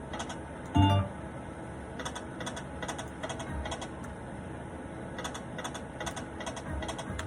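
Slot machine (pokie) game sounds: clusters of quick clicks over the machine's music, with one louder short tone and thud a little under a second in.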